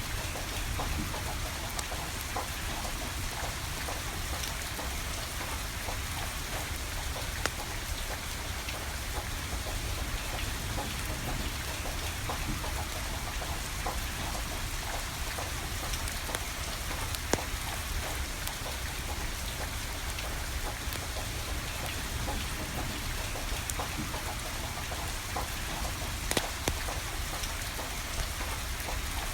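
Steady rain falling, with a low rumble underneath and a few sharp crackles from a wood fire burning.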